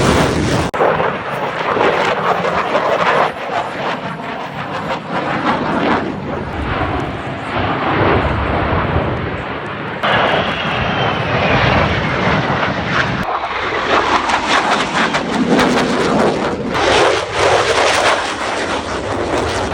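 Military jet aircraft engines roaring loudly as fighter jets make display passes, with abrupt changes in the sound at several points and a faint falling whine about ten seconds in.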